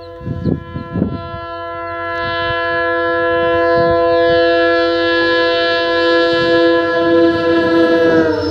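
Locomotive horn sounding one long blast as a train approaches at speed, its pitch dropping just before the end as the train passes. Knocks from the train's wheels on the track sound underneath, growing louder as it nears.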